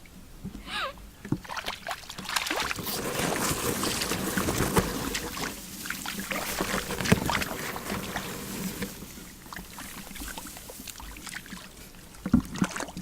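Water sloshing and splashing, with scattered clicks and knocks; busiest from about two to eight seconds in.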